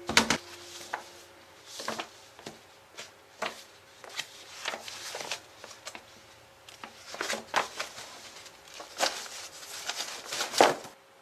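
Irregular light clicks and taps of small objects being handled, about a dozen spread out, with louder knocks right at the start and near the end.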